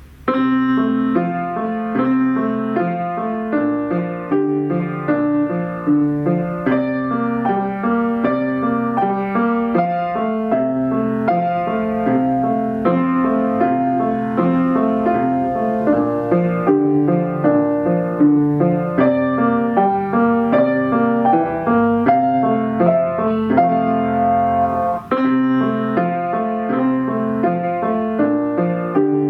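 A piano student playing a simple piece: a melody over a steady, repeating left-hand accompaniment, with one brief break in the flow about 25 seconds in.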